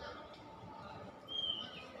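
A single short, high whistled bird note, falling slightly, about a second and a half in, over faint background hiss.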